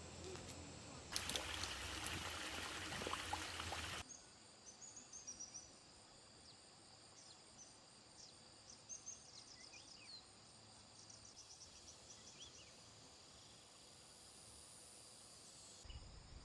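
A rush of water noise for about three seconds, which then stops suddenly. After it, insects buzz steadily with a high tone while many short high chirps and brief whistled calls come and go.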